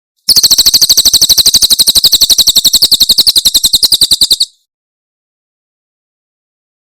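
A cililin bird's 'tembakan' song: a fast, even burst of sharp, high chirps, well over ten a second, lasting about four seconds and then stopping.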